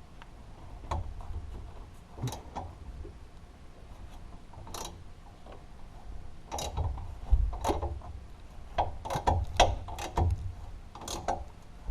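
Hand tools and metal exhaust parts under a Toyota AE86 clinking and knocking irregularly as the exhaust is unbolted and lowered. Sparse clicks at first, then a busier run of knocks and clanks in the second half.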